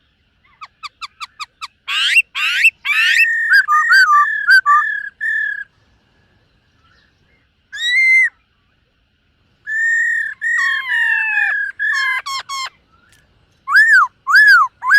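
Black-throated laughingthrush singing in bursts. It opens with a quick run of short notes, then gives loud whistled phrases with sweeping notes. A lone note comes about eight seconds in, then more phrases, and three arching whistles near the end.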